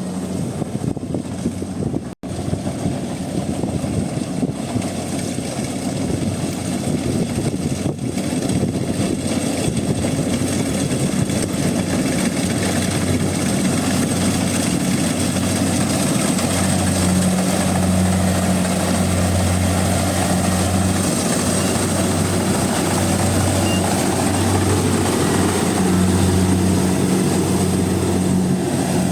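Rice combine harvester's engine running steadily under load as it cuts and threshes, a continuous low drone with a humming note that grows stronger in the second half. The sound drops out for an instant about two seconds in.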